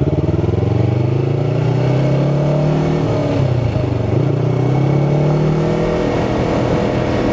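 2018 Yamaha R3's parallel-twin engine running under way, its pitch climbing and dipping several times as the throttle opens and closes, picked up by a helmet-mounted mic.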